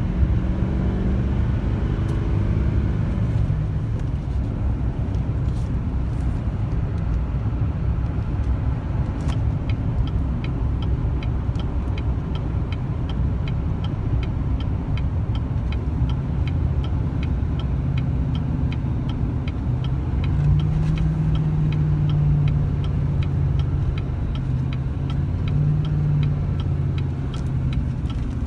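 A GMC Sierra HD's L5P Duramax 6.6-litre V8 turbo-diesel running as the truck drives at highway speed, a steady low drone that shifts in pitch near the start and grows stronger about two-thirds of the way in. A regular light ticking, a few per second, starts about a third of the way in and keeps on.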